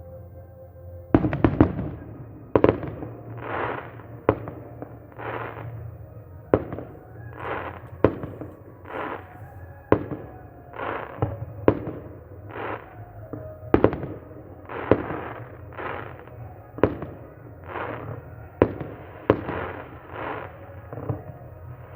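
Fireworks salute: a steady run of shell bursts, a sharp bang about once a second, each trailed by a short fading rush of sound.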